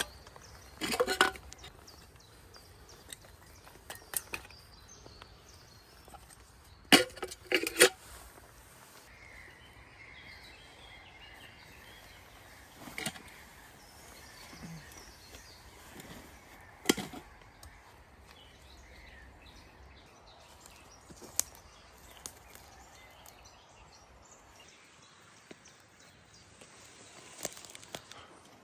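Sharp woody knocks, spaced irregularly, with three in quick succession about seven seconds in.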